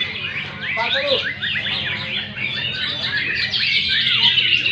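Many caged songbirds singing at once in a songbird contest: a dense, continuous chorus of overlapping chirps, trills and whistles, over a steady low hum.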